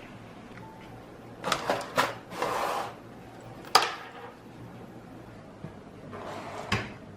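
Knocks and clicks of household objects being handled, the sharpest a little past halfway, with two short swishing noises.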